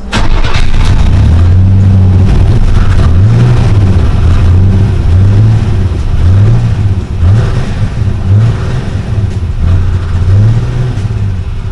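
Chevy S10 mini truck engine running, its revs rising and falling again and again as the throttle is worked, an engine that won't stay running on its own.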